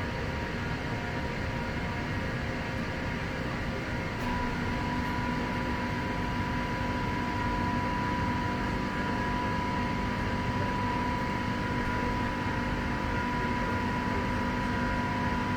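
Steady hum and rumble inside an underground metro train carriage, with a steady whine that grows a little louder about four seconds in.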